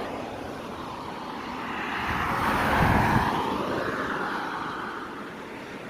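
A road vehicle passing by, its noise swelling to its loudest about three seconds in and then fading away.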